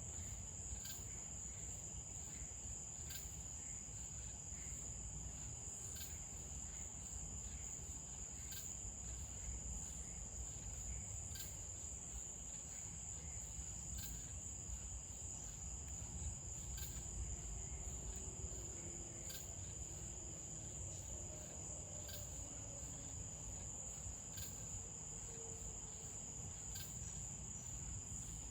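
A night chorus of crickets: one continuous high, steady trill, with a second insect's sharp chirps about once a second, over a faint low rumble.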